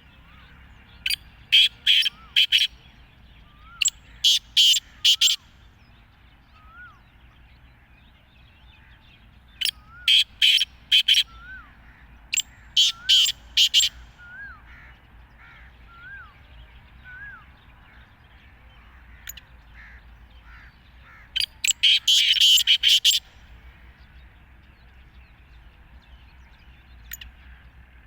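Black francolin calling: five loud, harsh phrases of four or five quick grating notes each, the last one about twenty seconds in the densest. Between the early phrases a faint, thin upslurred chirp repeats every second or so.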